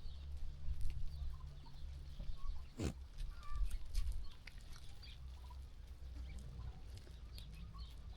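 Sheep farm ambience: a steady low rumble with scattered faint clicks and one sharp knock about three seconds in, and a few faint high chirps.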